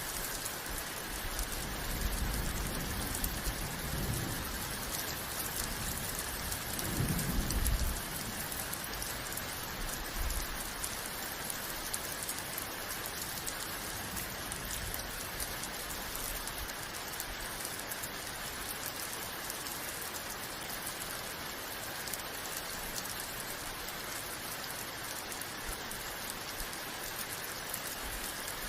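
Steady rain falling, an even hiss throughout, with two low rumbles of thunder in the first eight seconds, the second one louder.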